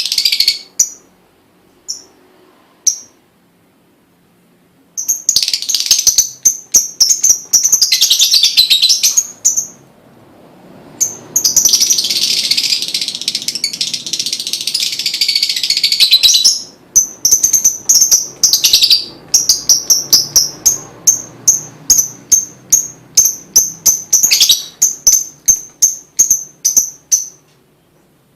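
Lovebird singing: shrill, high-pitched chattering in long unbroken trills, then a run of rapid separate chirps, about two or three a second, with short pauses between phrases.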